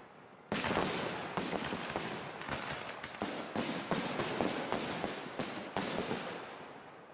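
Large professional aerial firework shells bursting in quick succession: more than a dozen sharp bangs with a rolling echo after each, dying away near the end.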